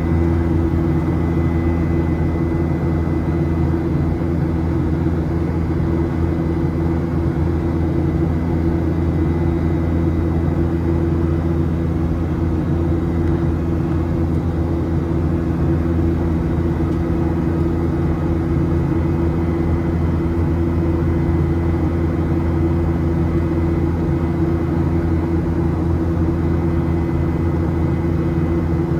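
Steady cabin drone inside a Boeing 737-700 in flight: CFM56-7B turbofan engine hum and airflow noise, a constant low hum over a rushing hiss.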